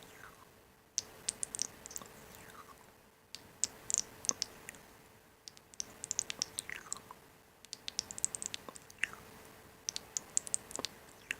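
Clusters of quick, sharp, crisp clicks, a handful at a time every second or two, with a few short falling squeaks among them, over a faint steady hum.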